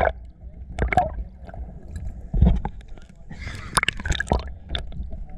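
Seawater sloshing and gurgling around the microphone with irregular sharp splashes and drips, and a bigger splash about three and a half seconds in, over a low rumble of surf.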